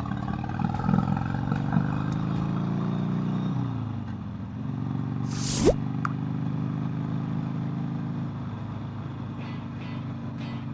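Motorcycle engine running; its pitch drops as the throttle eases off about four seconds in, then holds steady. A short hiss cuts in briefly about halfway through.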